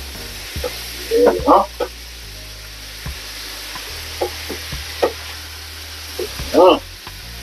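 Chicken and vegetables sizzling in a hot frying pan while being stirred and turned with a plastic slotted spatula. A few short, loud, pitched sounds break in about a second in and again near the end.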